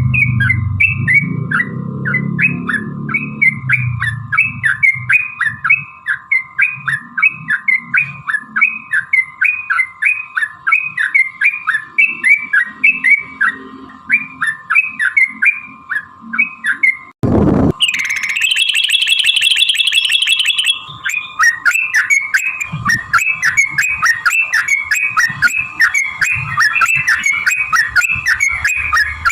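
Yellow-vented bulbul song: a long run of quick, bubbly repeated notes, several a second. About two-thirds of the way through, one sharp knock is followed by a fast, higher trill for about three seconds, and then the chattering song resumes.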